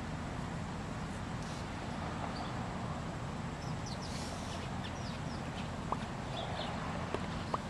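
Steady background hiss with scattered short, high bird chirps. Three brief sharp ticks come in the second half.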